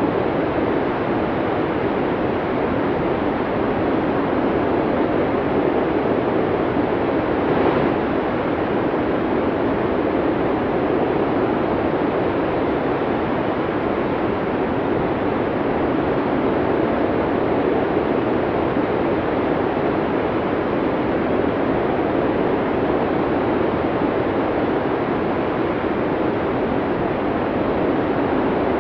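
Snowstorm wind blowing steadily: an even, continuous rushing noise with no distinct gusts.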